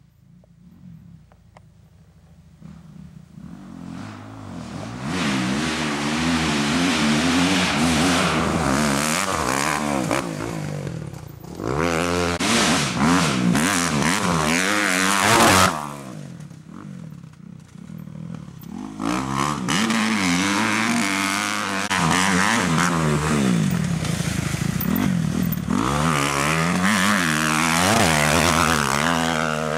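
Kawasaki KX250F four-stroke single-cylinder motocross bike riding the track: faint at first, then loud from about four seconds in. It revs up and down over and over through throttle and gear changes, easing off twice in the middle and dropping away near the end.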